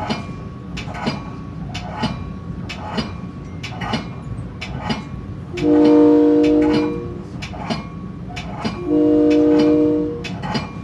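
Metra train's air horn sounding two long blasts, a few notes at once, over the steady clicking of wheels over rail joints about once a second.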